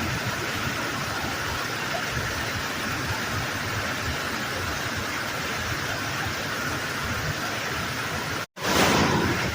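Waterfall water rushing, a steady hiss. Near the end it cuts out for an instant and comes back slightly louder.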